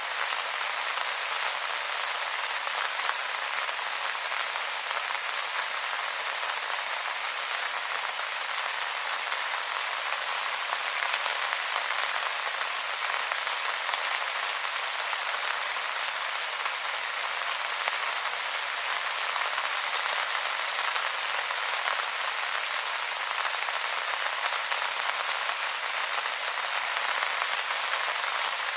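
Steady rain falling on wet leaves: an even, high hiss of many small drops, unbroken throughout.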